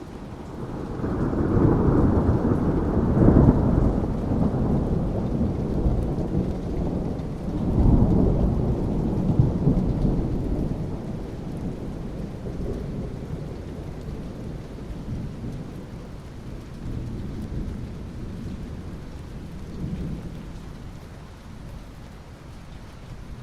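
Thunder rolling over steady rain. The rumble swells about a second in, swells again around eight seconds, then slowly dies away, leaving the rain.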